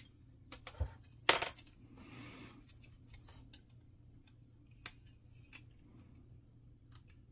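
Small plastic model-kit parts being handled and pressed together, with a few sharp clicks. The loudest click comes about a second in, and a soft rustle follows.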